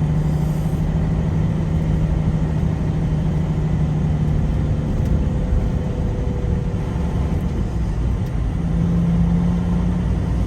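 Truck engine and road noise heard from inside the cab while driving through town: a steady low drone with an engine hum that drops away about halfway through and comes back near the end.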